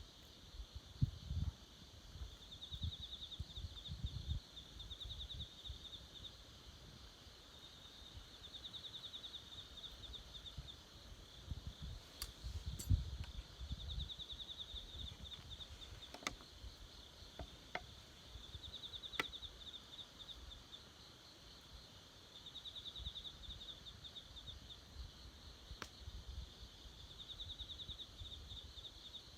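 Insects trilling in repeated pulsing phrases of a few seconds each, with a handful of sharp pops from a campfire and low uneven rumbling underneath.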